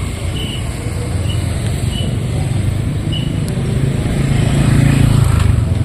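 Road traffic with a motor vehicle passing close, its engine and tyre rumble swelling to its loudest about five seconds in, then easing off.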